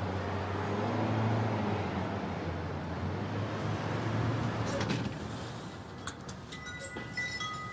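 A motor vehicle passing in the street, its engine hum and road noise swelling and then fading out about five seconds in. Light clicks and a thin steady high tone follow near the end.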